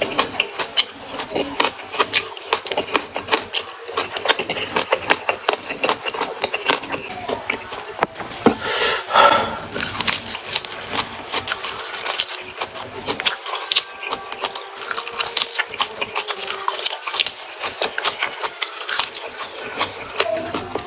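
Close-miked eating of raw vegetables with rice: a dense, irregular run of crisp crunches and wet chewing clicks, with a short voice-like mouth sound about nine seconds in.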